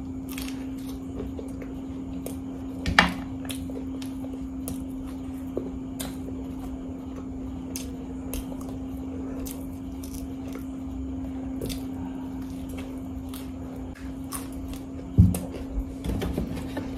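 A person chewing a bite of samosa, with many small scattered mouth clicks over a steady low hum. A sharp click comes about three seconds in and a low thump near the end.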